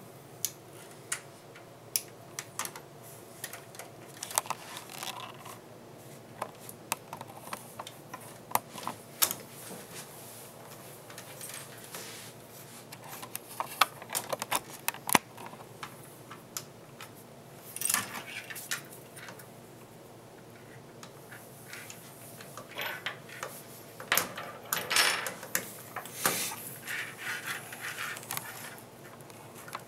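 Case-fan screws being tightened into a computer case with a hand screwdriver: irregular small metallic clicks and scrapes that come in clusters.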